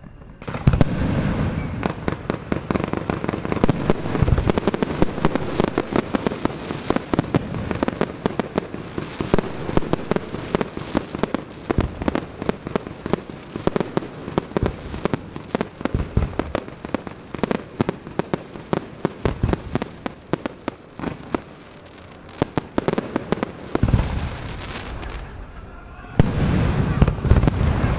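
Aerial fireworks display: a dense, rapid run of shell bursts and crackling cracks, with heavier low booms at the start and again near the end after a short lull.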